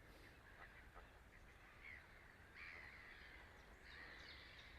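Faint honking calls from a flock of flamingos, several short calls starting about two seconds in over quiet outdoor background.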